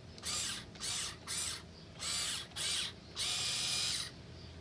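Electric drive motors and gearboxes of a Huina 1580 remote-control excavator whirring in about six short bursts, pitch rising and falling as the controls are worked while digging. The longest burst runs nearly a second, late on.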